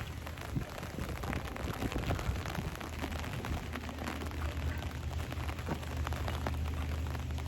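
Rain falling, with many small irregular drop ticks over a steady hiss, and a steady low hum underneath.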